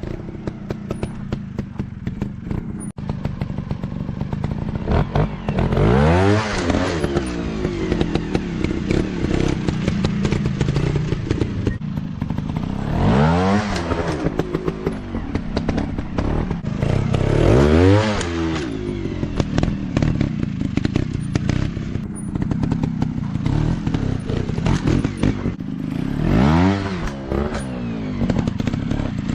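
Dirt bike engine running with a continuous note, revving up and falling back four times.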